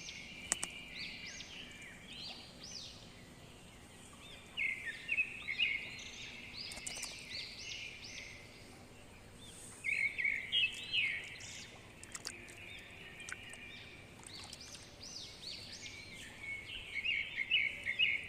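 Small birds chirping: many short, quick, overlapping chirps, with louder flurries now and then.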